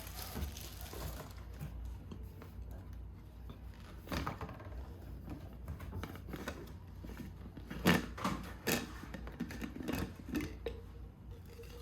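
Light clicks and clatter of small objects being handled, such as dishes and utensils, with a sharper knock about eight seconds in. The sizzle of food frying fades out in the first second.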